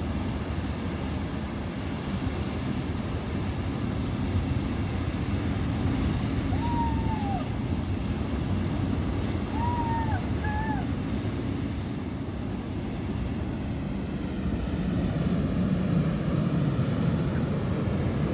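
Wind buffeting the microphone over surf on a rough, angry sea, a steady rushing noise. A few short high calls come through about seven and ten seconds in.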